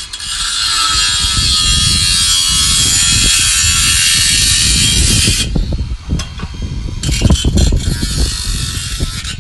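A power tool running under load with a loud, hissing whine: one run of about five seconds, a short break, then a second run of about two and a half seconds.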